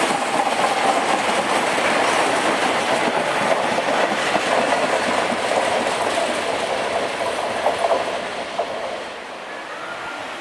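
Train running on the rails, a loud steady rumble that drops away about nine seconds in.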